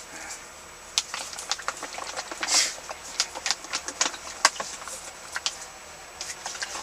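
Motor oil and diesel fuel being stirred together in a container for a homemade engine flush: irregular clicks and knocks, with two louder noisy bursts.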